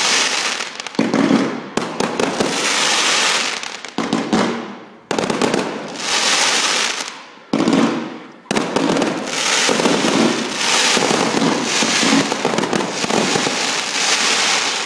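Fireworks going off: a rapid string of bangs and aerial bursts with dense crackling, coming in waves with two brief lulls, around five and eight seconds in.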